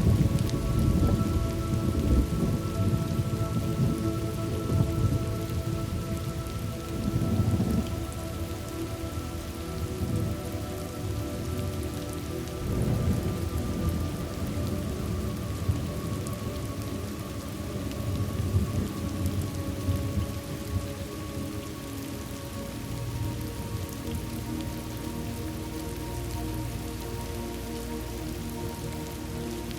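Steady rain with rolls of thunder. The rumbles are heaviest near the start and a few more come through in the first twenty seconds, then the storm settles into a softer, even rainfall.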